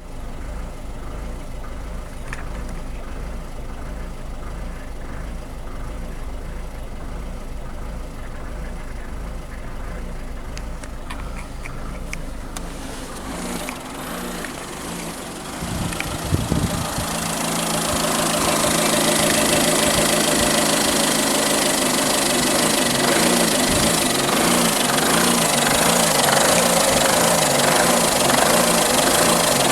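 Mazda 6 diesel engine running, its DPF warning light on and the engine smoking. A little past halfway it gets louder and harsher, with more hiss and a steady pulsing beat that holds to the end.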